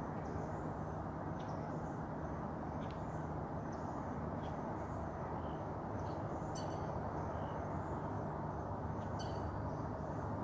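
Outdoor ambience: a steady low rumble with faint, scattered bird chirps, a couple of them a little clearer about two-thirds of the way through and near the end.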